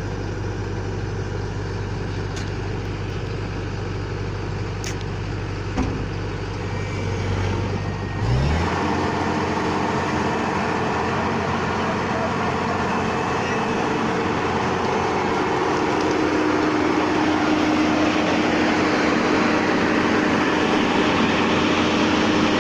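Rice combine harvester's engine running steadily, then revving up about eight seconds in and holding at a higher speed, with a louder rushing noise over the engine hum.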